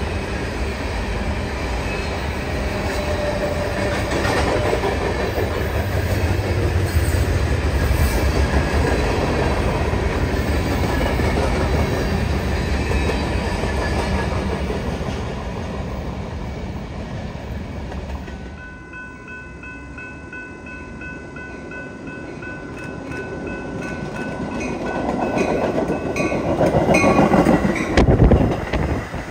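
Freight cars of a passing manifest train rolling by with a steady rumble and wheel clatter over the rail joints. About two-thirds of the way through this cuts off abruptly. A grade-crossing bell rings, and then a Metra bilevel commuter train rushes past close by, loudest near the end.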